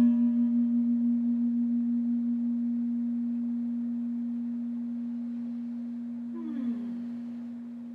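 A crystal singing bowl's single pure tone ringing on and slowly fading after being played, with a slight wavering at first.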